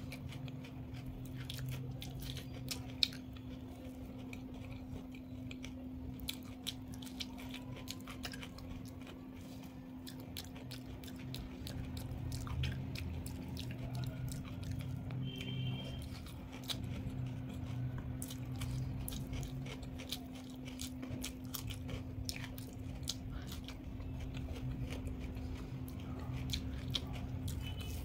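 Close-miked eating: chewing with many small, wet mouth clicks and smacks throughout, over a steady low hum.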